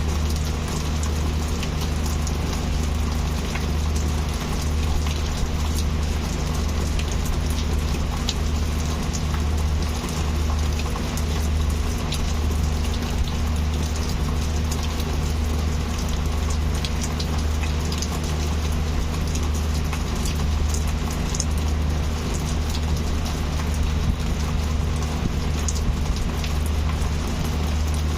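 Heavy rain falling steadily, with individual drops ticking sharply on a surface, over a constant low rumble.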